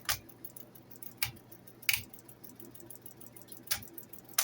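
A 1965 Record-O-Fone answering machine running with a faint steady low hum, with about five sharp, irregularly spaced clicks from its controls. The machine won't shut off.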